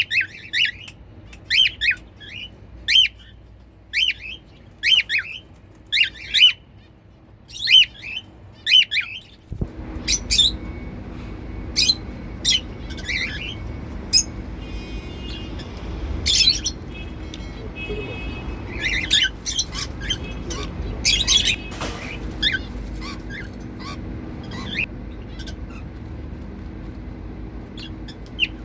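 Cockatiels giving flock calls: short chirping calls in a quick regular run for about ten seconds, then more scattered calls and a few whistled notes over a steady low hum.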